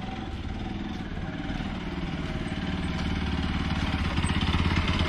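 Motorcycle engine running at low speed, a steady low note with fast even firing pulses that grows steadily louder.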